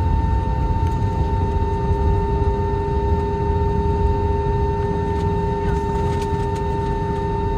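Airbus A321-231 taxiing on one of its IAE V2500 engines at idle: a steady drone with two steady whining tones over a low rumble.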